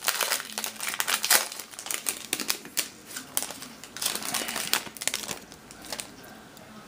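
Trading card pack wrapper being torn open and crinkled by hand, a dense irregular crackling that dies down about five seconds in.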